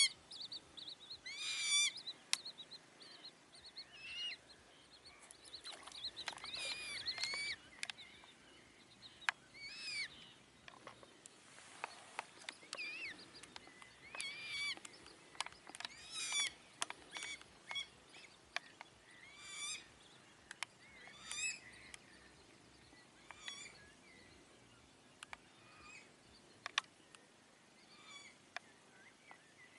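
Birds calling: many short, high chirps and whistled notes in loose repeated bursts, with a few faint clicks in between.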